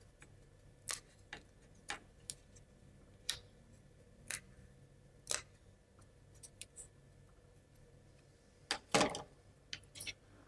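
Small laser-cut plywood model parts being handled: scattered sharp wooden clicks and snaps, about a dozen, with the loudest pair near the end.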